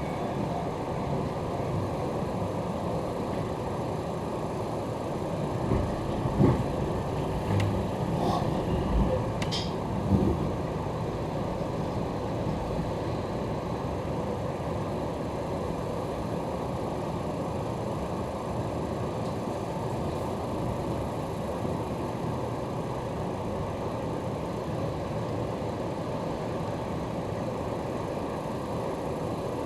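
Steady running noise inside an electric commuter train moving slowly on the JR Chūō West Line: an even rumble of wheels and running gear, with a few short knocks about six to ten seconds in.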